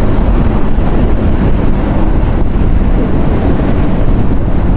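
Loud wind rush over the rider's microphone on a Yamaha R15 V4 motorcycle at highway speed, with the bike's 155 cc single-cylinder engine running steadily underneath.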